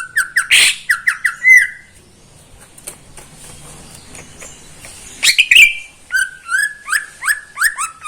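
Green leafbird (cucak ijo) singing in quick runs of short, sharp whistled notes. A burst of about two seconds is followed by a pause, then another burst from about five seconds in.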